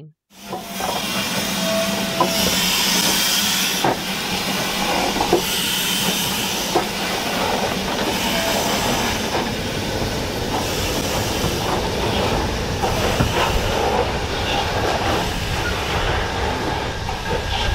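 Railway train noise: a loud, steady hiss over a low hum, with sharp clicks about every second and a half.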